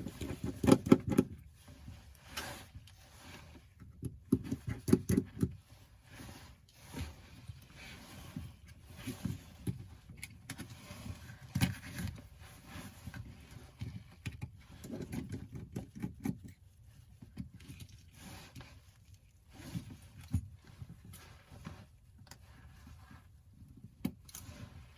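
Irregular small clicks, taps and scrapes as tools and small phone parts are handled on a work surface during the screen removal on an iPhone 8, with a few louder knocks.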